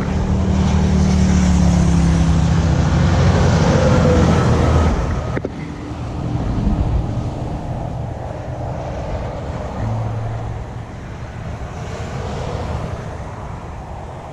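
A motor vehicle with a deep engine hum passes close by, its pitch falling as it goes; it is loudest for the first five seconds and then fades. After it, steady road and wind noise.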